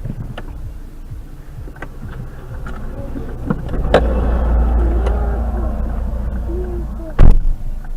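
Steady low road and engine rumble of a moving car, then one very loud bang about seven seconds in, the impact of a collision.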